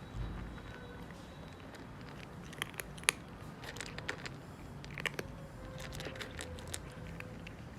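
Calico cat eating, a series of sharp crunchy chewing clicks in irregular clusters, starting a couple of seconds in.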